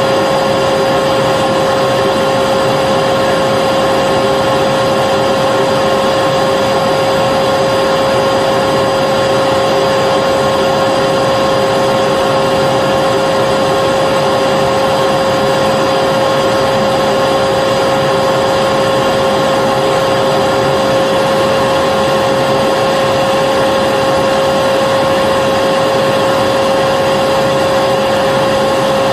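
Vacuum cleaner running steadily and unchanging, a constant motor whine over the rush of air.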